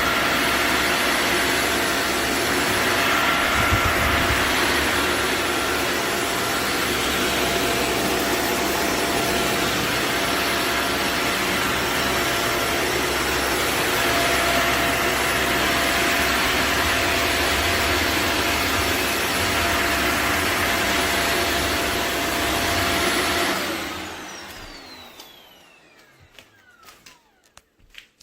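Shark Vertex upright vacuum cleaner running steadily at full power with a constant whine, then switched off a few seconds before the end, its motor whine falling in pitch as it spins down, followed by a few faint clicks.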